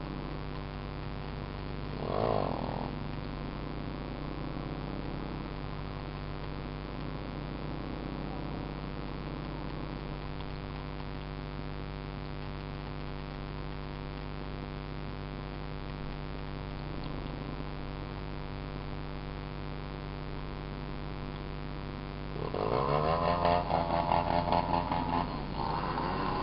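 Small dirt bike engine idling steadily. Near the end a louder, pulsing sound with rising pitch comes in.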